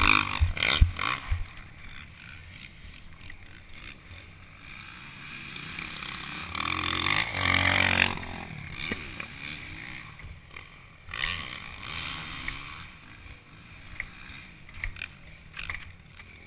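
Honda CRF450 motocross bike's single-cylinder four-stroke engine running, rising and falling with the throttle, with a few sharp knocks in the first second or so. It is louder for a stretch in the middle.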